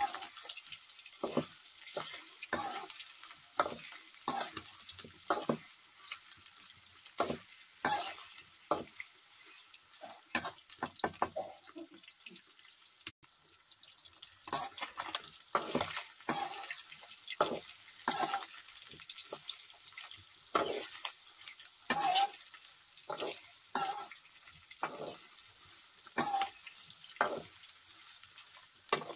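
Soya chunks frying in oil in a steel kadai, stirred with a metal slotted spoon. The spoon scrapes and clinks against the pan in irregular strokes, about one or two a second, over a steady frying sizzle.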